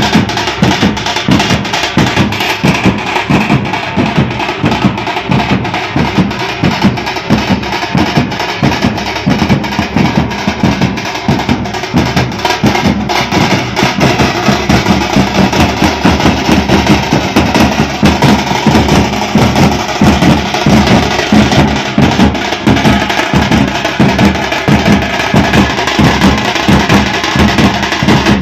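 Drum band playing a loud, fast, steady rhythm of dense drum strokes.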